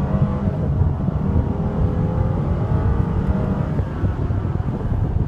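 Mercedes-Benz SL550's turbo V8 under full-throttle acceleration from a standing start, heard from inside the cabin: a deep engine note rising in pitch as the car speeds up toward 60 mph.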